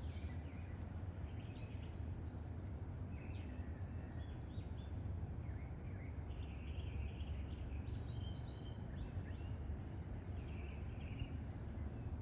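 Birds chirping and calling in many short, high notes over a steady low rumble.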